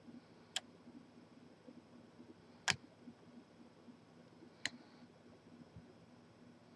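Lock picking a large Corbin padlock: three sharp clicks about two seconds apart, the middle one loudest, over a faint low hum.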